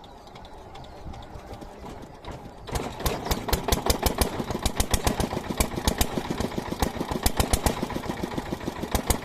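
Small single-cylinder stationary diesel engine of a water pump set catching about two and a half seconds in, then running with an even, sharp diesel knock of several beats a second.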